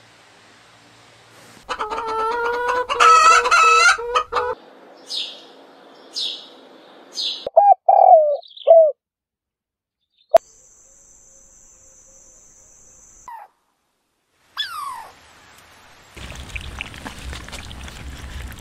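A string of bird calls: a long wavering call about two seconds in, then several short high chirps that fall in pitch, and a few short lower calls. A click is followed by a steady high tone for about three seconds, and a dense noisy stretch comes near the end.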